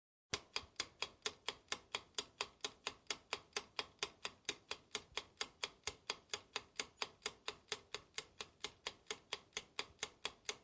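Clock ticking, a steady run of sharp ticks at about four a second that starts and stops abruptly, like a countdown-timer sound effect.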